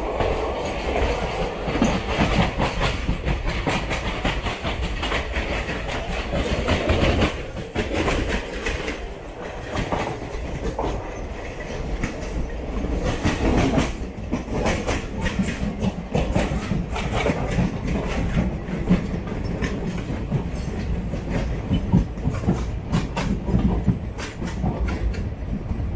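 Express train coach running along the track, heard from an open window: a steady rumble and rush with the wheels clicking and clacking over rail joints many times.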